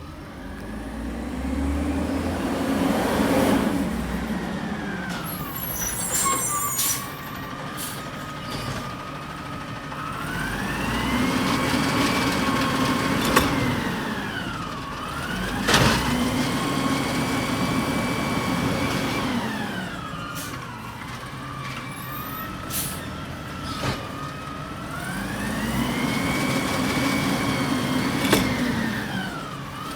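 Peterbilt 320 garbage truck's engine revving up, holding and dropping back in repeated cycles of a few seconds, as the hydraulics are run to work the body. Several sharp bangs and clanks of trash handling come in between.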